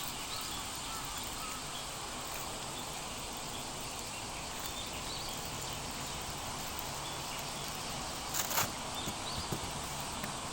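Steady outdoor background noise with faint small chirps, and one short noisy burst about eight and a half seconds in, followed by a few light clicks.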